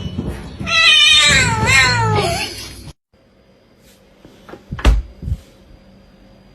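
A cat giving one long, loud meow of about two seconds that wavers and then slides down in pitch, cut off suddenly. A couple of seconds later comes a sharp thump followed by a softer knock.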